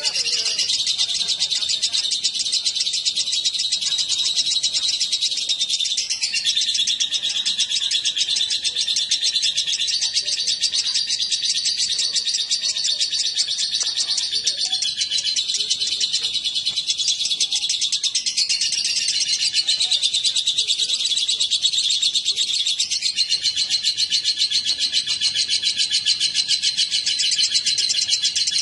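Lovebirds chattering in a continuous, rapid high-pitched trill without a break, the pattern shifting every few seconds.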